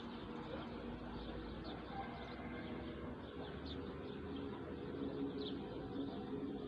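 Small birds chirping in quick, scattered calls over a steady low drone.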